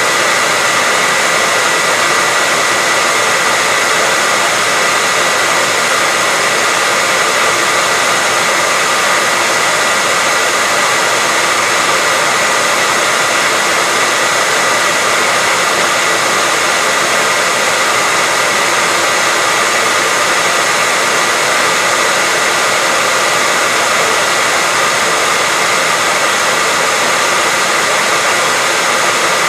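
Hair dryer running steadily: a loud, constant blowing hiss with a thin steady whine running through it, unchanging throughout.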